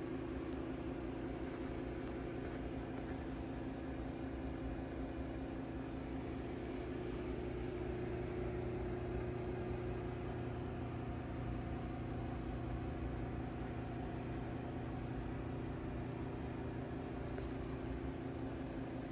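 A machine running steadily, with a constant hum that does not change in pitch or load.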